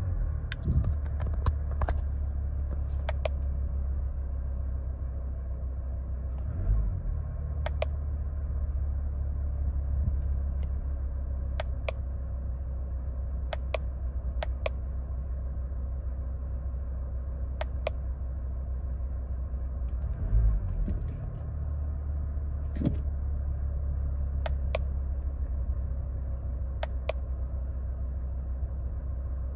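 A Mercedes-Benz W211's engine running steadily with a low, even rumble, heard from close by, with a scattering of light sharp clicks.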